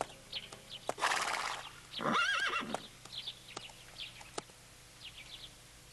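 A horse whinnies once, a wavering call about two seconds in, shortly after a brief burst of noise. Birds chirp throughout, and a few sharp clicks sound.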